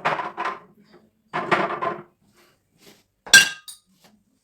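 Glass bottles clattering and knocking together as they are handled and moved about, then one sharp glass clink a little over three seconds in that rings briefly.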